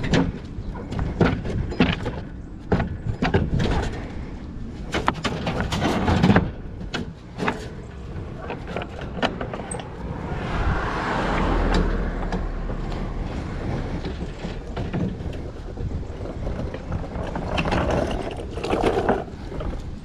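Items being rummaged and moved through a dumpster: repeated knocks, clatter and rustling. A rushing noise swells for a few seconds in the middle.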